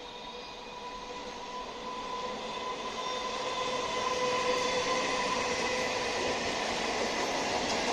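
Suburban electric local train (EMU) approaching on the rails, its wheel-and-rail noise growing steadily louder, with a faint steady whine on top.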